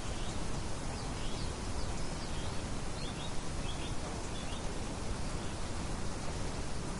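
Steady hiss of a light wind breeze, with a few short, high bird chirps in the first half.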